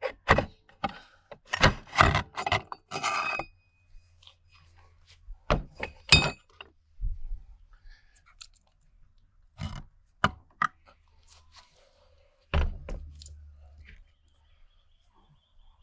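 Metal parts of a BTR four-speed automatic transmission knocking and clattering as they are handled during a teardown. There is a quick run of knocks in the first few seconds, then single knocks about six, ten and thirteen seconds in; the last is louder and rings briefly.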